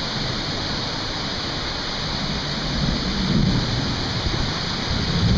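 Heavy rain pouring down in a thunderstorm, a steady hiss, with a low rumble swelling about three seconds in.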